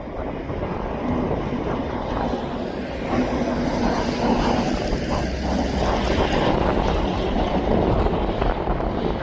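Wind buffeting the microphone over a steady rumble of aircraft engines, which grows louder about three seconds in.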